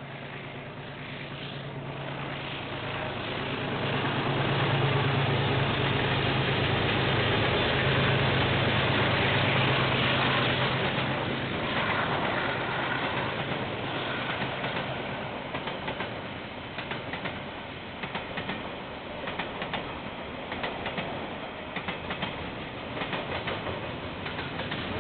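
KiwiRail freight train passing. A steady diesel locomotive engine drone builds and peaks in the first half, then the wagons roll by with repeated clacking of wheels over rail joints.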